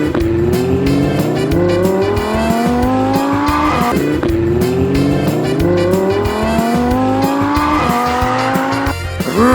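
Race car engine sound effect accelerating, its pitch climbing in about three long sweeps as if shifting up through the gears, over background music with a steady beat.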